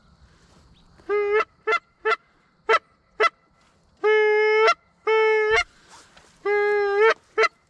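Goose honking at close range: a run of short clipped honks followed by three longer, drawn-out honks, each breaking upward in pitch at its end.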